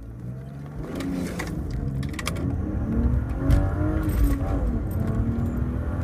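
BMW E36 328is's 2.8-litre straight-six accelerating hard from a standstill in first gear, heard from inside the cabin, its pitch rising steadily with the revs. This is a launch the driver says bogged, which the owner blames on the clutch delay valve.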